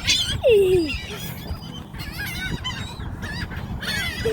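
A flock of birds calling around a feeding spot: a loud honk sliding down in pitch about half a second in, over continuous high chirping and chattering from many birds.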